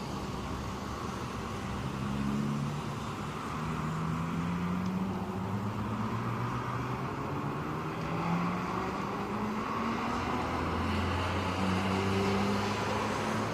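Road traffic: car engines passing and changing pitch, several overlapping, over a steady wash of noise.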